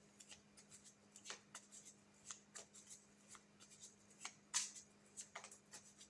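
Tarot cards being shuffled and handled: a quick, irregular run of soft card flicks and snaps, with one louder snap a little past halfway.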